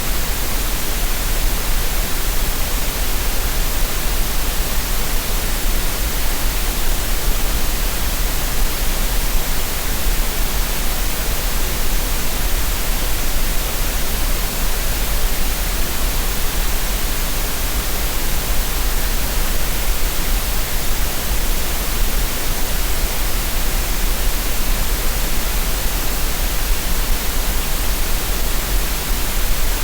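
Synthetic green noise: a steady, unbroken hiss spread evenly from low to high, with no changes or events.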